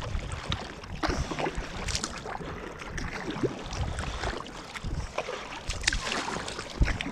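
Kayak paddling: water splashing and dripping irregularly as the paddle blades dip and lift, with frequent low rumbling thumps underneath.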